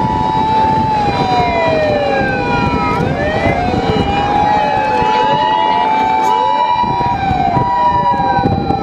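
Several fire engine sirens wailing, rising and falling out of step with each other. Under them an ambulance's two-tone siren switches back and forth between a higher and a lower pitch, over the rumble of the vehicles' engines.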